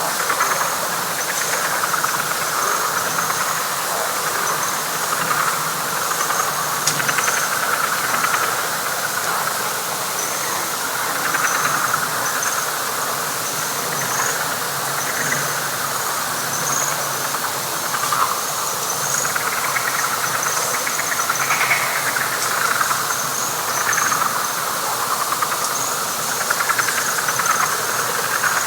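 Dense night chorus of frogs calling over one another in overlapping, pulsing waves, with a steady run of short, high, rapidly repeated chirps above it.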